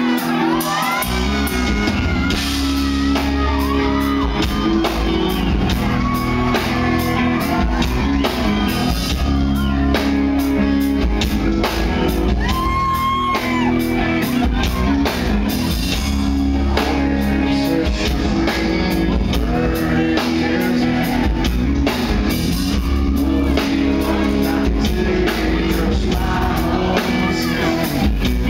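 Live rock band playing a song: electric guitar, bass and drum kit under a male lead vocal.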